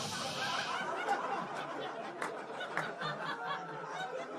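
Stand-up comedy audience laughing: many people laughing and chuckling at once, a steady crowd sound.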